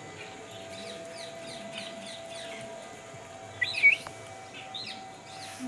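Many small birds chirping in short, quick calls, with one louder squeaky call a little past the middle.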